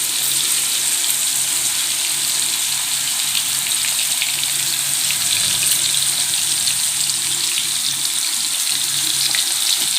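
Marinated chicken pieces frying in hot oil: a steady sizzle with scattered small crackles.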